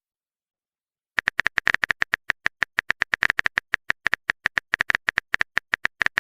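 Keyboard-typing sound effect: a fast run of short clicks, about ten a second, starting after a second of silence.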